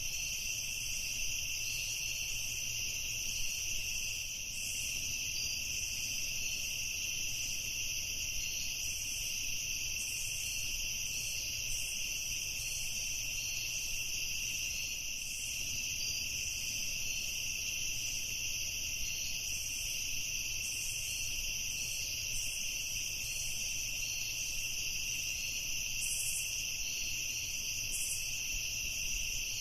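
Evening insect chorus of crickets trilling in a steady, unbroken high-pitched drone.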